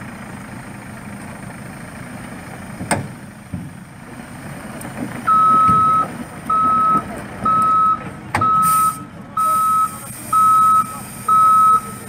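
Truck's reversing alarm beeping, one steady pitch about once a second, starting about five seconds in, the first beep longer, over the low running of the truck's engine. Two sharp clicks and a high hiss sound along with the beeps.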